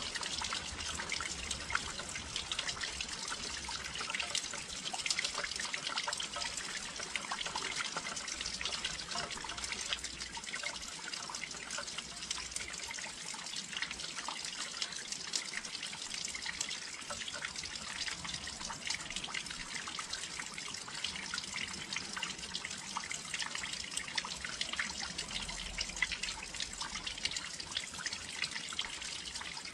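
Steady rain with many fine irregular drips and patters, heard close by at a windowsill.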